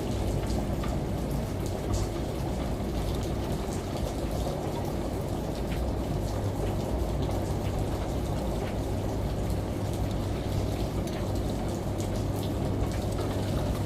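Steady rain and running water with fine scattered drop ticks, over a low steady hum from a running washing machine.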